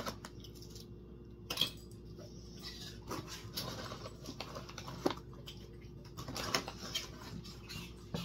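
Crunchy pizza-flavoured waffle crisps being chewed: a run of small, irregular crackles and clicks, with a louder crunch about one and a half seconds in and another about five seconds in.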